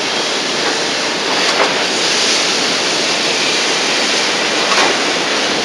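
Steady hiss from the noisy soundtrack of a digitized VHS tape, with two faint clicks during it.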